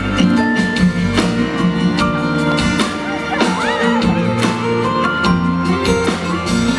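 Live band playing the instrumental introduction of a pop ballad, with guitar and a steady beat.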